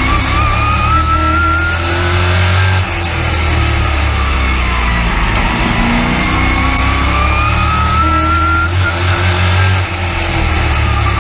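Race truck's engine heard from inside the cab at full race pace, its pitch climbing steadily, then dropping as the driver lifts about three seconds in. It climbs again and drops once more near the end, following the laps of an oval.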